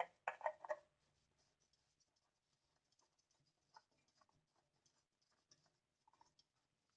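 Near silence with faint scratching and a few small clicks, most of them in the first second.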